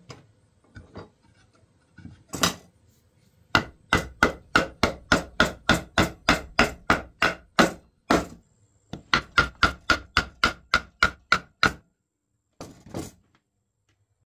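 Hammer blows in woodworking: a few single taps, then two quick runs of sharp strikes at about four a second separated by a short pause, and two last taps near the end.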